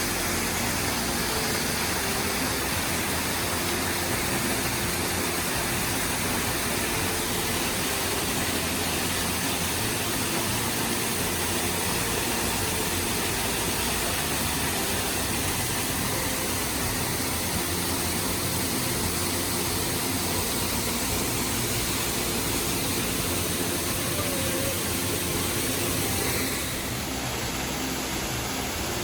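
Waterfall rushing, a steady even wash of noise that eases slightly near the end.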